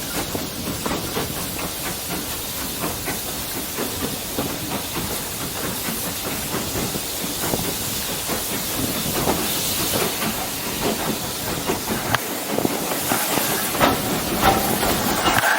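Steam locomotive hissing: a steady rush of escaping steam with many small irregular knocks through it.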